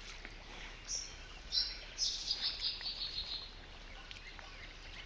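A songbird singing over a steady background hiss: a short high note, then a held high note, then about two seconds in a quick run of high notes that falls slightly in pitch over a second and a half.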